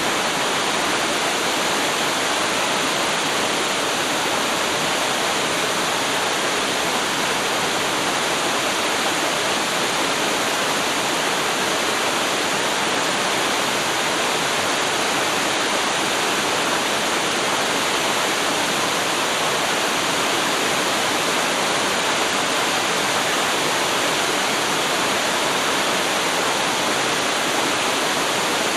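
Small waterfall, water pouring and splashing in a steady, even rush with no let-up.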